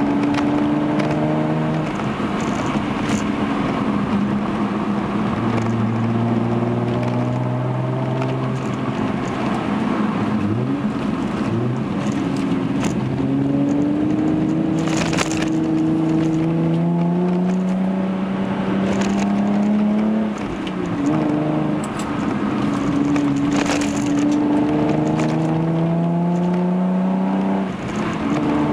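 Hyundai Genesis Coupe 3.8's V6 with a Young Motors catback exhaust, heard from inside the cabin while driving. The engine note climbs in pitch under acceleration and drops back several times, as with gear changes, with a few short knocks along the way.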